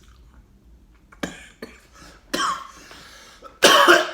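A man coughing several times in short bursts, the last and loudest near the end.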